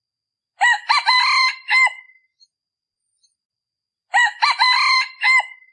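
A male decoy junglefowl (ไก่ต่อ), a cock kept to call in wild junglefowl, crowing twice, about three seconds apart. Each crow is short and clipped, lasting about a second and a half.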